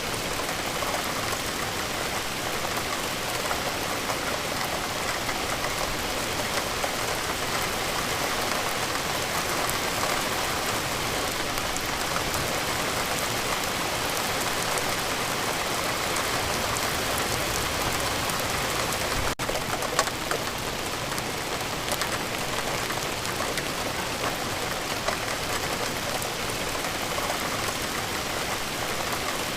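Steady rain falling, an even hiss dotted with the taps of individual drops. There is a momentary break in the sound about two-thirds of the way through.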